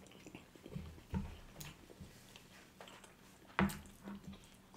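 Faint chewing and mouth sounds of people eating with their mouths closed, with a few brief soft clicks and one short louder mouth sound about three and a half seconds in.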